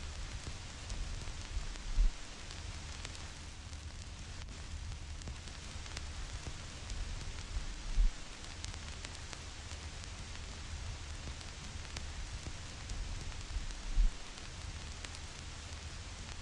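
Vinyl record crackle: a steady surface hiss with fine, scattered pops and clicks, mixed with white noise. A low thump comes three times, about every six seconds.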